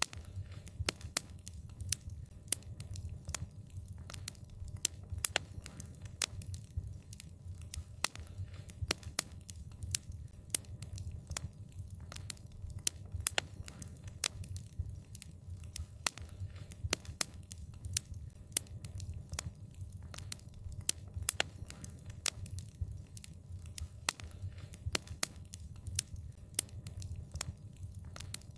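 Wood fire crackling: a steady low rumble of flames with frequent sharp pops and snaps, several a second.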